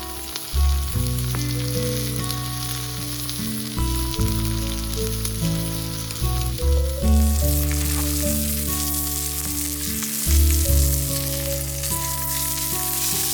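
Meat sizzling as it grills over a campfire, the hiss getting stronger about seven seconds in, under background music.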